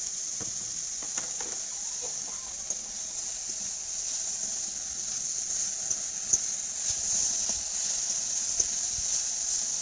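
Gima saag greens and potato pieces sizzling in hot oil in a steel wok, a steady hiss, while a spatula stirs them with a few sharp scrapes and knocks against the pan.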